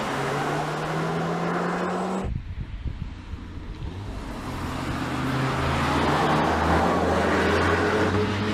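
2020 Audi S3's turbocharged four-cylinder engine and exhaust under acceleration, the engine note rising in pitch over the first two seconds. About two seconds in the sound cuts abruptly to a duller, lower rumble, which then builds again as the engine pulls.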